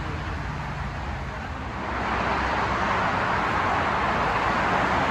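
A motor vehicle's engine running with a low hum, joined about two seconds in by a rushing noise that swells and stays loud.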